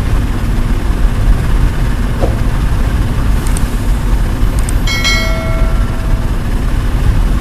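Steady heavy engine rumble of a vehicle or machine running. About five seconds in, a short pitched horn-like tone sounds for about a second.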